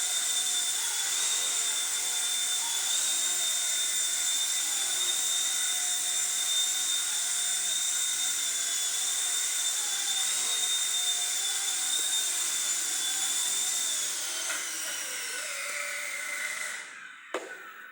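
Small fixed-pitch RC helicopter's coreless motors and rotors giving a steady high whine, then winding down in pitch over the last few seconds until they stop, followed by a single knock.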